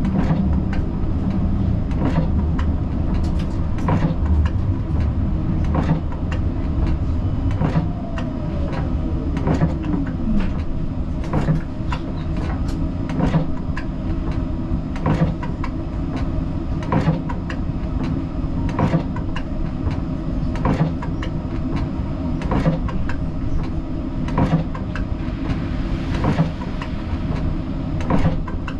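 Siemens Combino tram running, heard from the driver's cab: a steady low rumble of motors and wheels on rail, with a sharp click repeating a little under once a second. About nine seconds in, a whine falls in pitch.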